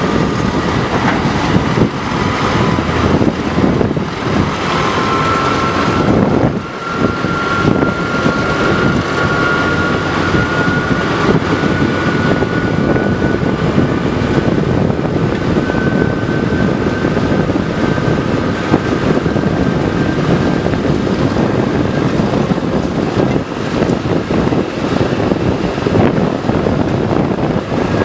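A train running through deep floodwater: a steady, loud rush of churning, splashing water along the side of the train, mixed with its running noise and wind on the microphone. A faint thin whine rises slowly in pitch from about five seconds in.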